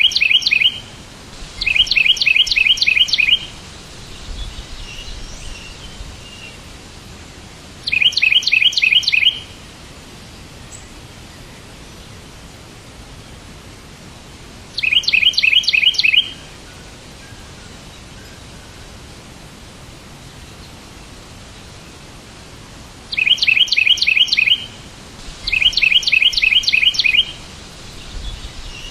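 A songbird repeating a fast trilled phrase of rapid, evenly spaced notes, about a second and a half each, six times at irregular intervals. Faint softer chirps and steady background noise fill the gaps.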